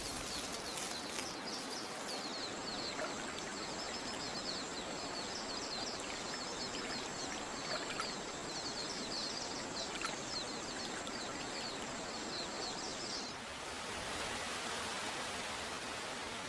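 Forest ambience: many rapid bird chirps and a steady high whine over a constant rushing noise. The chirps and the whine stop abruptly about 13 seconds in, leaving only the rushing hiss.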